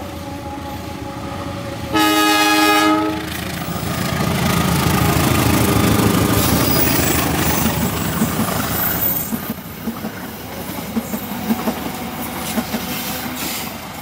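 A train passing: a single horn blast about two seconds in, lasting about a second. Then a loud rumble of the train going by, with the wheels clacking over the rail joints in the second half.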